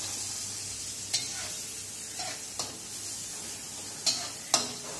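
Garlic and sliced sausage sizzling in margarine in a wok, stirred with a spatula that taps and scrapes against the pan a few times.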